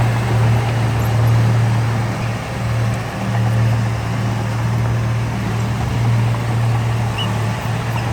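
Heavy diesel engine of earthmoving equipment running steadily, a low even drone with a noisy clatter over it.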